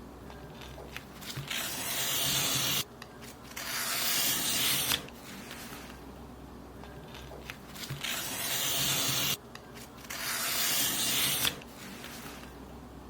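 Paper being cut in long hissing strokes, four of them in two pairs, each swelling over a second or so and stopping abruptly.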